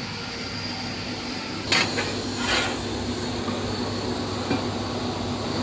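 Automatic linear seam welder and its equipment running with a steady hum and a thin high whine. Two sharp metallic clinks come close together a little under two seconds in.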